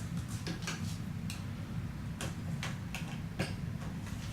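Light, irregular clicks and taps of a model rocket and its parts being handled and set down, over a steady low hum.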